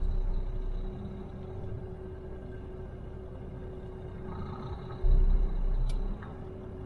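Truck engine running steadily, heard from inside the cab, with a louder low rumble lasting about a second near the end and a single sharp click.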